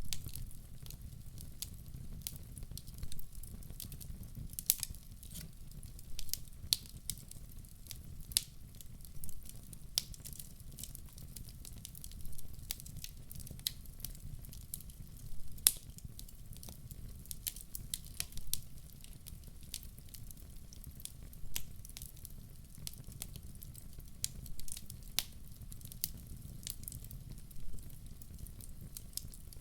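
Wood fire burning in a fireplace, crackling with irregular sharp pops, several a second, over a steady low rumble.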